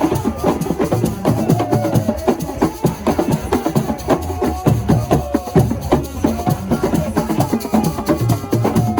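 Assiko percussion music: dense, fast drumming with sharp clicking strikes, and a voice singing or calling over it.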